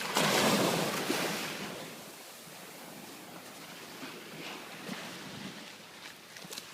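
Sea waves breaking on the shore: a loud wash of surf in the first second or so that fades into a steady hiss of water.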